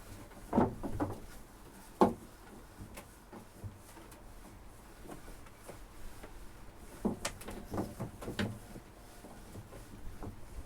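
Scattered knocks and clunks as a fishing net and its gear are handled and laid out, with the loudest knock about two seconds in and a cluster of lighter ones later on.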